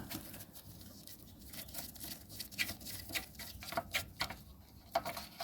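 Faint, irregular clicks and scrapes of hands working at a lawnmower engine's oil filler, opening it to check the oil.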